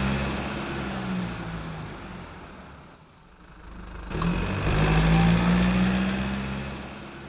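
A car engine running loud, fading away, then swelling up again about four seconds in and fading once more.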